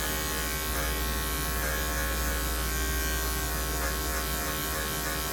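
Electric dog grooming clippers running with a steady buzz, shaving out matted fur on a dog's ear.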